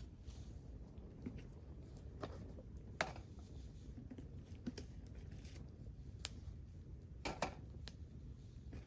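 Sharp clicks and taps at irregular intervals, the loudest about three seconds in and a close pair near the end, over a steady low background hiss.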